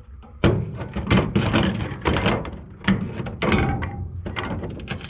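Repeated clanks and knocks of scrap metal parts being handled and worked on, several sharp hits a second apart.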